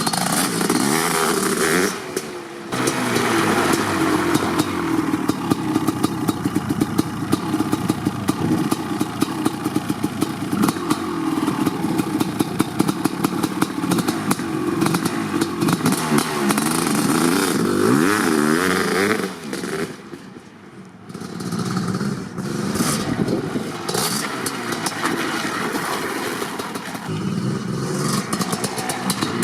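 Kawasaki KX500's big single-cylinder two-stroke engine, fitted with an FMF Gnarly pipe, revving up and falling back again and again. The sound dips briefly about two seconds in and drops off for about a second around twenty seconds in before picking up again.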